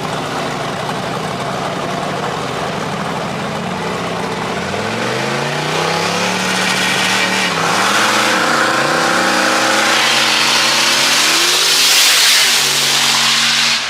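Cars launching in a street race: engines idle steadily, then rev up hard about four seconds in. The pitch rises, drops briefly at a gear change and climbs again, while rushing noise builds as the cars gain speed.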